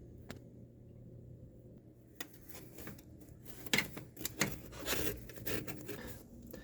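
Oil filter wrench clicking and scraping on a stuck oil filter as it is worked loose: a string of sharp metal clicks and knocks starting about two seconds in, over a steady low hum.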